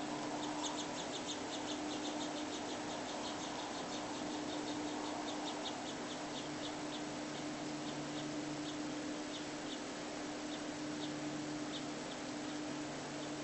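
Bird making a run of short, sharp high ticks, quick at first at about five a second, then slowing to scattered single ticks, over a steady low hum.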